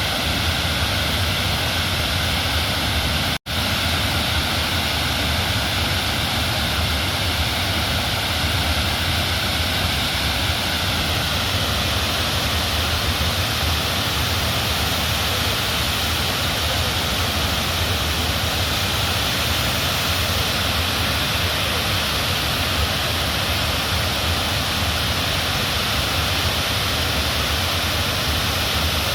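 Fast floodwater of a swollen, overflowing river, a steady loud rush of water. It cuts out for an instant about three seconds in.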